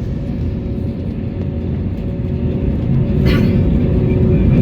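Cabin noise of an Airbus A321neo airliner: a steady low rumble with a faint hum from the engines, growing louder about three seconds in.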